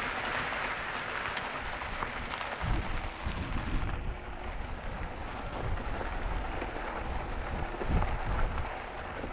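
Wind rushing over the microphone and tyres rolling on the trail as an e-bike rides along, with low buffeting swells about three seconds in and again near the end.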